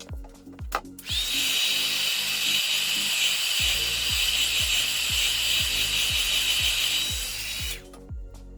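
A small electric motor-driven tool runs steadily for about seven seconds, with a high hiss and a thin whine that rises as it starts up about a second in, then stops near the end. Background music with a steady beat plays underneath.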